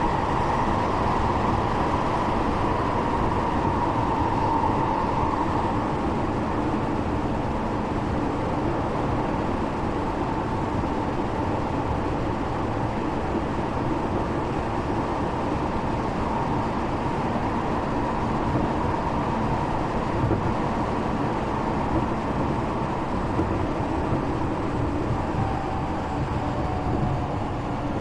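Tokyo Metro 8000 series electric train heard from inside the car: a steady rumble of wheels on rails, with a faint motor whine that slowly falls in pitch as the train slows for a station.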